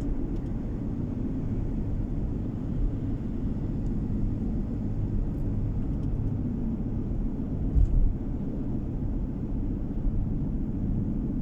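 Steady low rumble of a car's engine and tyres on the road, heard from inside the cabin, with one brief thump about eight seconds in.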